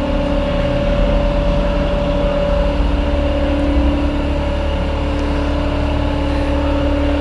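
A steady mechanical drone, a low rumble under a constant hum, unchanging in pitch and level.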